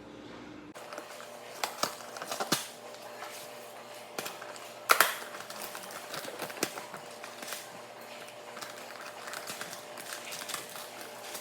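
Scattered clicks, taps and knocks of kitchen items being handled, with one loud knock about five seconds in, over a faint steady hum.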